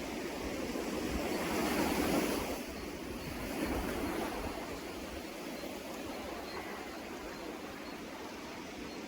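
Sea waves breaking and washing on the shore, one swelling to a peak about two seconds in and a smaller one near four seconds, then a steady wash of surf.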